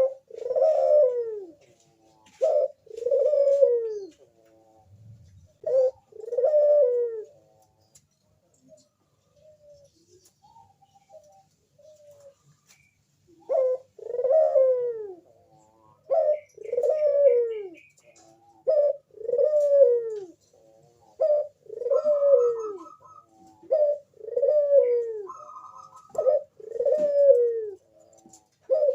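Crossbred puter (domestic ringneck dove) cooing over and over, each call a short note followed by a longer, falling coo, repeated every couple of seconds, with a pause of several seconds near the middle.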